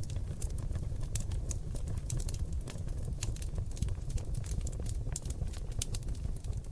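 Oak logs burning in an open fireplace: a steady low rumble of flame under many irregular sharp crackles and pops, several a second.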